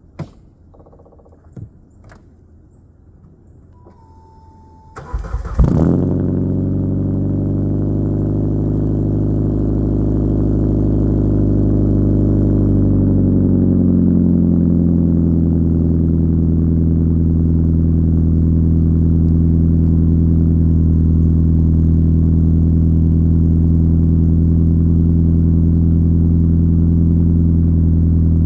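1999 Saturn SL2's 1.9-litre four-cylinder engine, fitted with an Evil Energy aftermarket muffler, cold-started. A few clicks and a short tone come first, then it cranks briefly about five seconds in and catches. It idles high at first, then about eight seconds later the idle drops and settles into a steady run.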